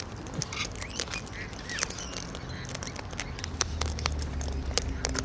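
Wild birds making short squawks and calls, with many small clicks and taps around them. A low steady hum comes in after about three and a half seconds.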